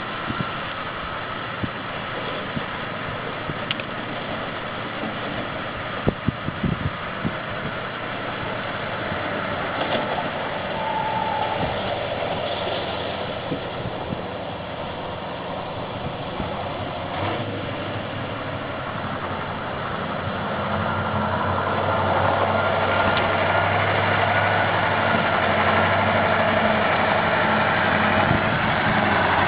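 Ural 6x6 off-road truck engine running, with a few sharp knocks a few seconds in, then getting louder and heavier from about two-thirds of the way through as it works harder.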